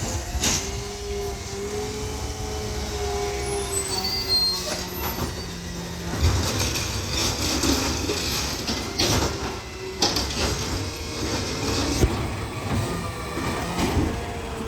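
Garbage truck's diesel engine running as the truck drives off, with a wavering tone for the first few seconds and several sharp clanks later on.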